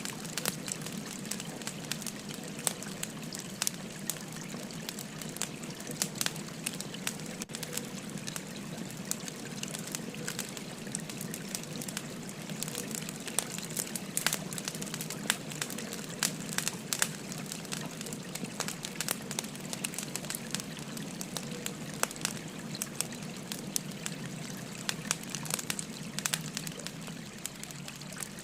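Wood fire crackling with frequent, irregular sharp snaps, over the steady rush of a gently flowing river.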